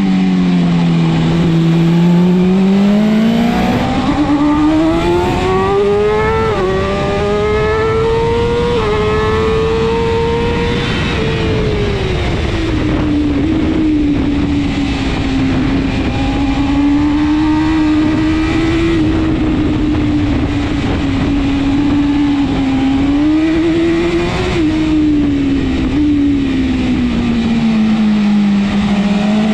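BMW S1000RR superbike's inline-four engine at race pace. It revs up hard through the gears with a couple of quick shifts, drops off, then runs at mid revs, with a short rise and fall a little past the two-thirds mark. Near the end it eases down.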